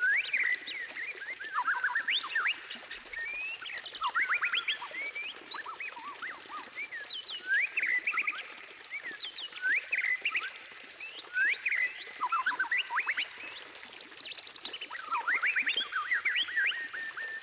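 White-rumped shama (murai batu) singing a varied song of quick rising notes and high chips, with a fast run of repeated notes near the end.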